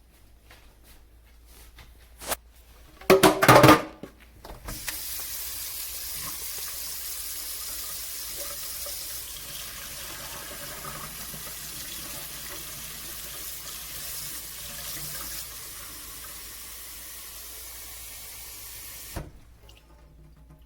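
Water running from a tap into a sink, rinsing the electric mop's removed pads, a steady rush that runs for about fourteen seconds and is shut off abruptly. A short loud clatter comes a second before the water starts.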